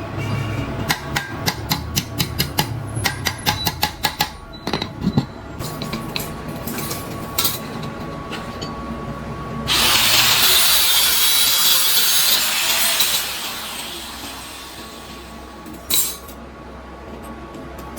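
Workshop tool sounds: a run of quick clicks and taps over the first few seconds, then about three seconds of loud, even hiss starting about ten seconds in, and a single knock near the end.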